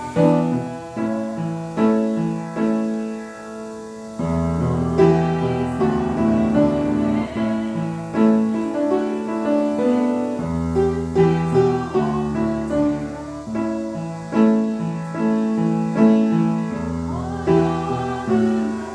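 Piano playing slow chords with sustained notes and occasional deep bass notes, easing off briefly a few seconds in before picking up again.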